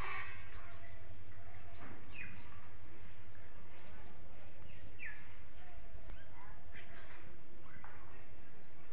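Several birds chirping and calling now and then, short sharp chirps and quick falling whistles, over a steady low background rumble.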